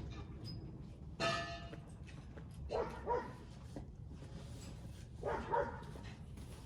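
A dog barking in two short pairs, about three and five seconds in, with a brief clatter about a second in.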